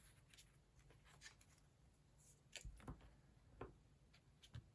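Near silence with a few faint taps and rustles as fabric and a book cover are handled and lined up.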